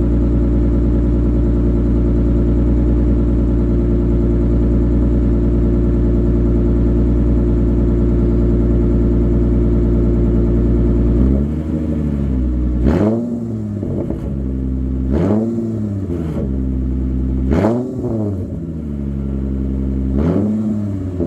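Straight-piped exhaust of a 2013 Lexus GS350's 3.5-litre V6 idling steadily, then blipped several times from about eleven seconds in, the revs rising sharply and falling back each time.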